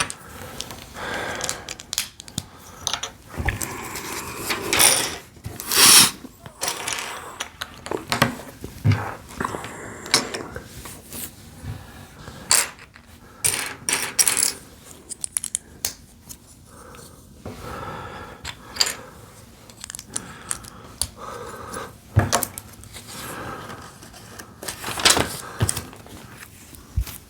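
Small plastic LEGO pieces being handled and pressed together: irregular clicks and clatter of bricks, with a few longer rustling stretches.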